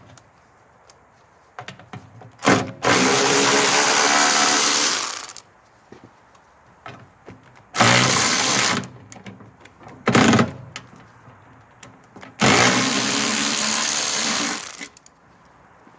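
Power drill-driver run in bursts, taking out the bolts of a snow blower's bottom pan: two runs of about two and a half seconds and two short ones, with small clicks and knocks between.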